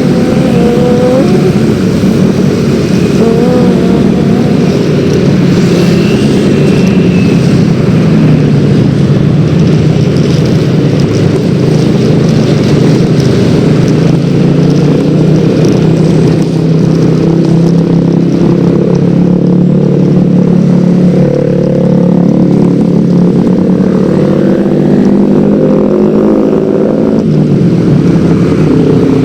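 Yamaha X-Ride 113 cc scooter engine running on the road over a steady rush of wind. The engine note climbs gradually through most of the stretch and falls away near the end.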